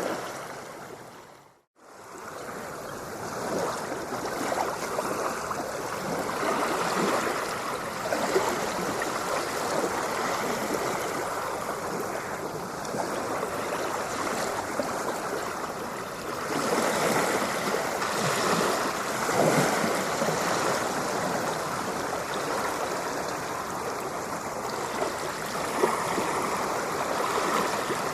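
Ocean waves washing and rushing in a steady wash of water noise that swells and eases slowly. About a second in, the sound fades out almost completely and comes back within a second, like the splice of a looped recording.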